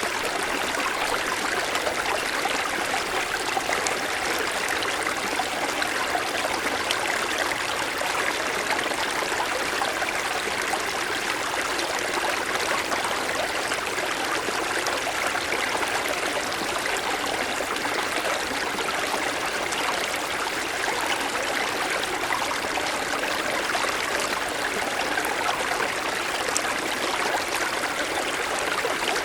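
Mountain stream flowing and splashing over snow-covered stones, a steady rush of water.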